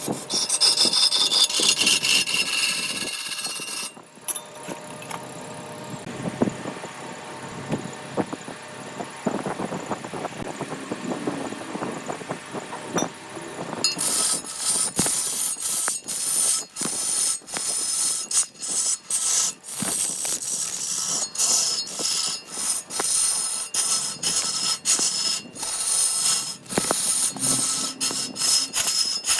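Tools working wood in three stretches: a loud, hissing spell for the first four seconds, a quieter scraping spell with scattered clicks, then from about halfway on a run of quick, repeated abrasive strokes and clicks.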